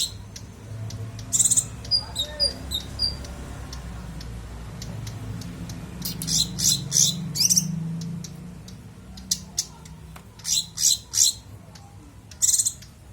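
Songbird singing in short, sharp high-pitched bursts of rapid notes, a tight 'spet' style of song, coming in clusters with gaps between them. A faint low murmur sits underneath.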